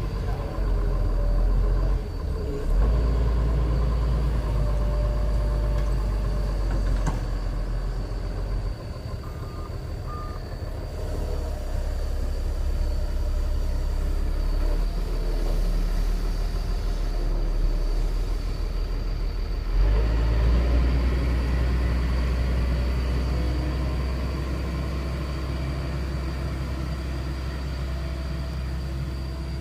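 A vehicle engine running with a steady low rumble, shifting in level a few times.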